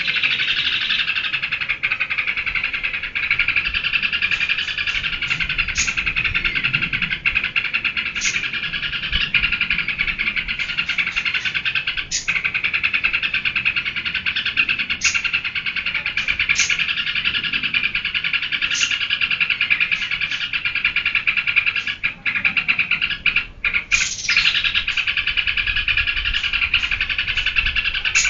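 Yellow-vented bulbul singing without pause in a dense run of chattering song, with short sharp high chirps standing out every second or two.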